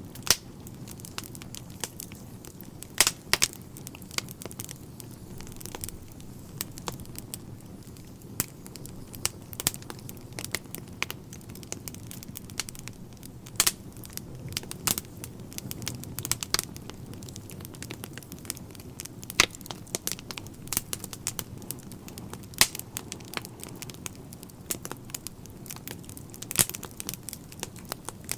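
Wood fire burning in a fireplace: a steady low rumble of flames with irregular sharp crackles and pops of burning logs, a few louder snaps scattered through.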